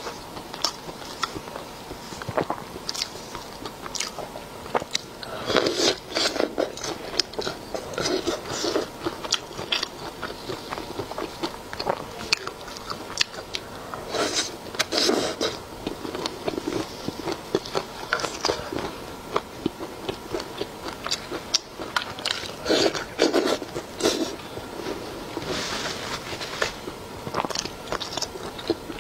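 Close-miked eating: a woman biting into and chewing skewered food dipped in spicy chili-oil broth, in bouts of chewing a few seconds apart with many short clicks between.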